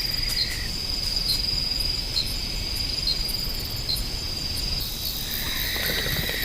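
Night insect chorus: crickets giving a steady high trill, with a second, lower trill coming in about five seconds in.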